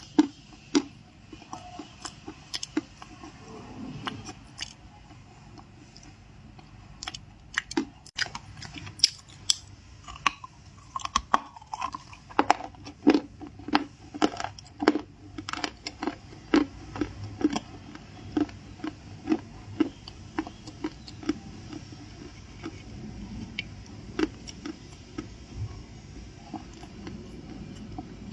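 Someone biting and chewing crunchy stuffed cookies: a dense run of crisp crunches that thins out near the end.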